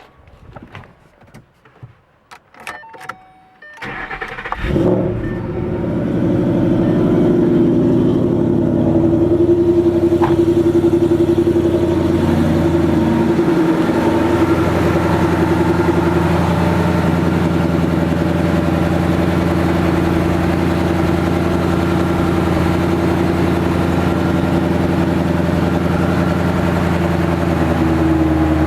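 2012 Ford Mustang GT's 5.0-litre Coyote V8 started after a few clicks. It catches about four seconds in, revs up briefly and settles into a steady idle.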